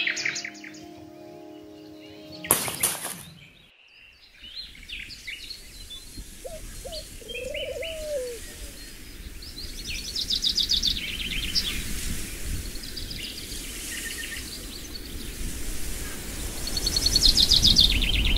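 Small birds chirping and trilling in short repeated phrases, with a brief loud rush of noise about two and a half seconds in.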